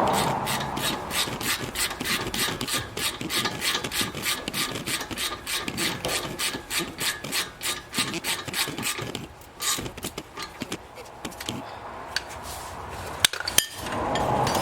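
Hand tool working on a brake caliper assembly: fast, even rasping strokes, about four or five a second, that thin out after about nine seconds, then two sharp metallic clicks near the end.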